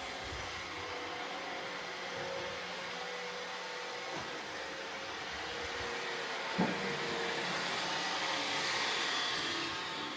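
Roomba robot vacuum running, a steady whirring hum with a faint motor whine, and a sharp knock about six and a half seconds in.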